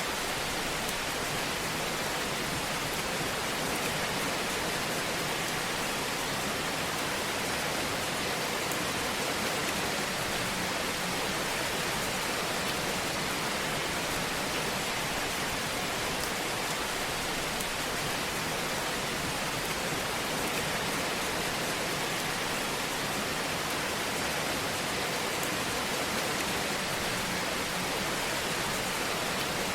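Fire burning in a fireplace: a steady hiss with faint, scattered crackles.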